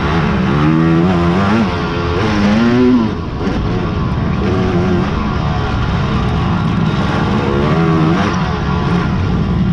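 Racing quad (ATV) engines revving up and down through the gears as the quads ride the course, several machines overlapping. The pitch climbs to its highest about three seconds in, then drops.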